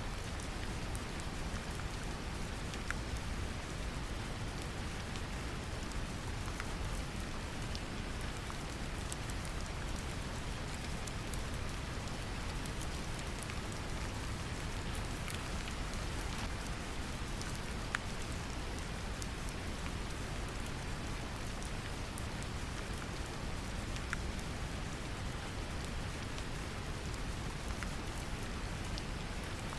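Steady brown noise, a deep even rumble, mixed with gentle rain: a constant hiss of falling rain with scattered drop ticks.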